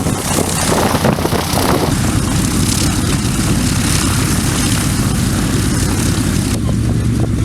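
The CA-13 Boomerang's 14-cylinder Pratt & Whitney R-1830 Twin Wasp radial engine running, propeller turning. The sound is noisy and uneven for the first two seconds, then settles into a steadier low rumble, with a steady low hum coming through more clearly near the end.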